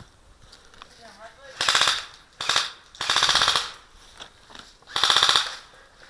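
Airsoft electric gun firing four short full-auto bursts of rapid clicking shots, the longest in the middle.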